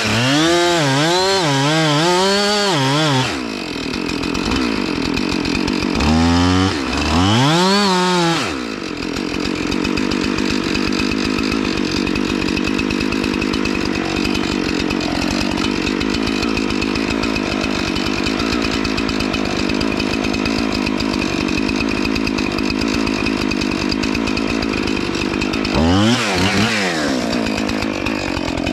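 Chainsaw revved in quick bursts, its pitch swinging up and down, then held at a steady pitch for a long stretch while cutting into a pine, with more revving near the end.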